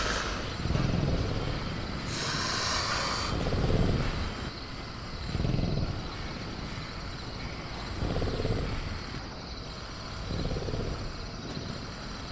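Sound-effects ambience of a caged creature: a low rumble that swells and fades every second or two, over faint steady high chirring from crickets, with a burst of hiss about two seconds in that lasts just over a second.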